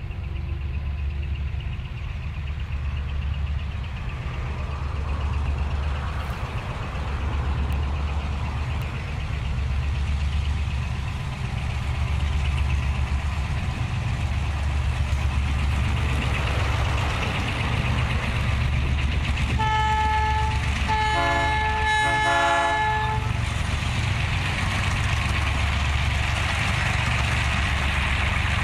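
Diesel freight locomotives running with a steady low engine rumble that pulses regularly. About twenty seconds in, the locomotive's several-tone air horn sounds a short blast, then a longer broken blast of a couple of seconds.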